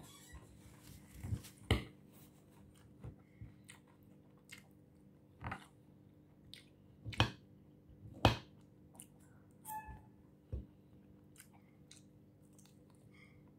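Chewing and crunching of crisp lettuce salad and roast chicken, with scattered sharp clicks as a metal fork meets the plate. The sounds come irregularly, several seconds apart.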